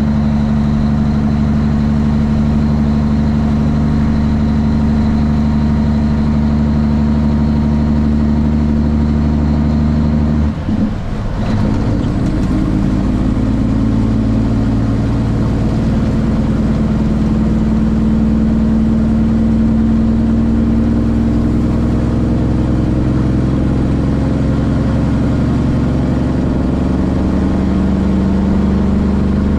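Straight-piped Cummins ISX diesel engine of a Kenworth T800 truck running steadily. About ten seconds in, its note briefly drops out and comes back at a different pitch.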